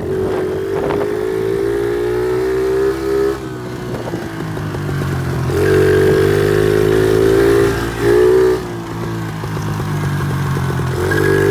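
Pit bike engine ridden hard: the throttle opens and closes in three pulls, the pitch climbing through each and dropping as it backs off about three and a half seconds in and again near eight and a half seconds.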